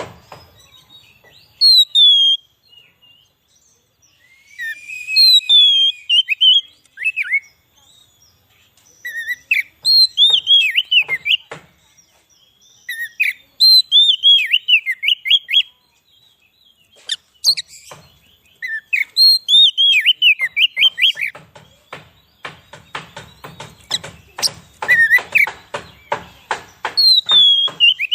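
Oriental magpie-robin (kacer) singing: loud phrases of downward-sliding whistled notes, delivered in bursts of a few seconds with short pauses between them. Near the end the phrase turns into a dense run of rapid notes.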